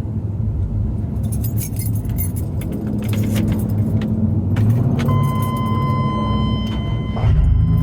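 A vehicle engine running with a steady low rumble, along with jingling rattles like keys in the first few seconds. About five seconds in, a steady high electronic tone starts and holds.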